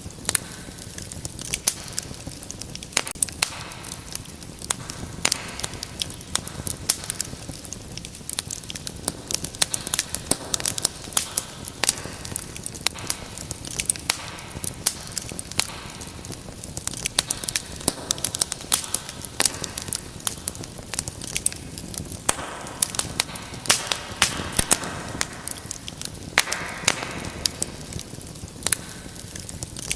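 Wood fire burning in a fireplace, crackling with frequent irregular sharp pops over a steady soft hiss of the flames, with occasional brief swells of rushing flame.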